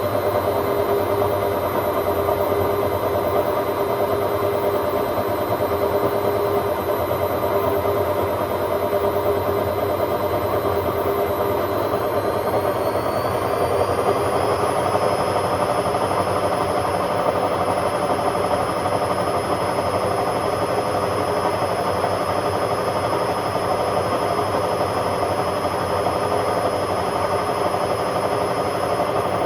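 Hotpoint Aquarius WMA50 washing machine spinning, a loud steady rumble with a high motor whine. About halfway through, the whine rises in pitch as the drum speeds up, then holds steady.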